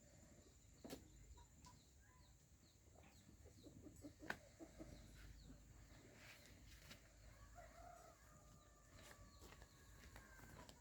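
Faint chickens clucking against a quiet background, with scattered light clicks and one sharper knock about four seconds in.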